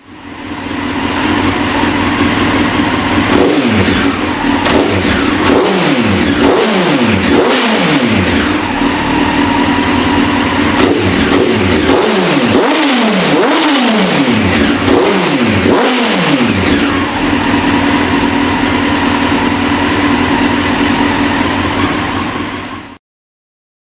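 Honda CBR929RR's inline-four engine breathing through a Two Brothers aftermarket exhaust, revved again and again so its note climbs and drops in a series of blips. Then it holds a steadier note, and the sound cuts off suddenly near the end.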